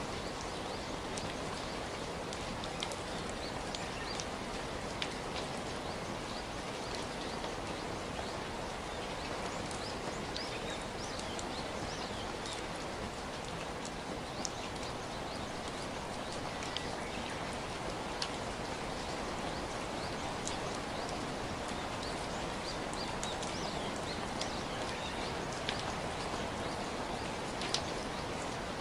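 Steady rain, an even hiss with many scattered drops ticking on a surface.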